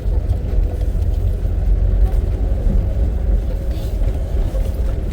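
Safari vehicle driving along a jungle track: a steady engine drone with heavy low rumble from the ride.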